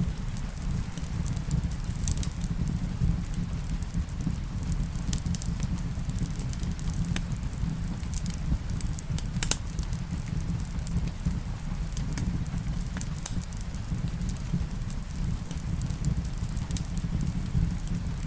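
Wood fire in a fireplace crackling, with scattered sharp pops over a steady low rumble, the loudest pop about halfway through, and a soft wash of rain behind it.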